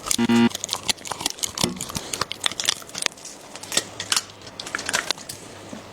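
Dog chewing and crunching on a raw crocodile tail, with irregular sharp crunches of bone and gristle throughout. A short, loud pitched sound comes about a quarter second in.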